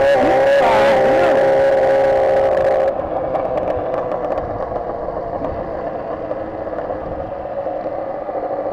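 Motorcycle engine held at steady high revs, then easing off about three seconds in to a lower, rougher running sound with road and wind noise.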